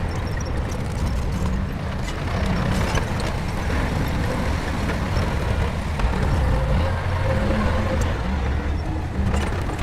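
Shantui bulldozer's diesel engine running steadily, with scattered short clanks over it.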